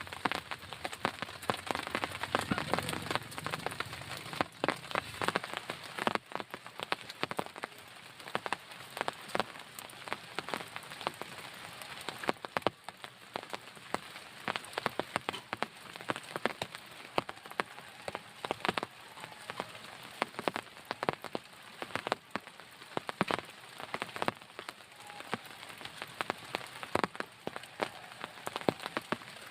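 Heavy rain falling steadily, with many sharp, irregular drop impacts on a nearby surface.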